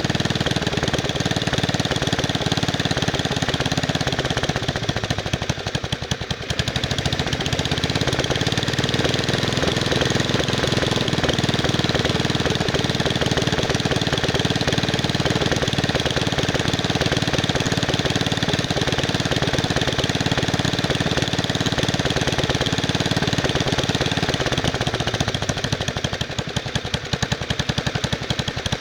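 Wisconsin S8D single-cylinder air-cooled engine of a 1969 Bolens 850 garden tractor running, dropping briefly about six seconds in and again near the end, where separate firing beats come through. It is the sign of a throttle that responds poorly, which the owner puts down to faulty throttle and governor linkages.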